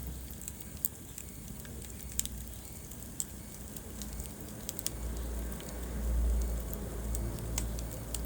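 Wood fire burning in a fireplace: a steady low rush of flames with scattered sharp crackles and pops. The low sound of the flames swells louder about five to seven seconds in.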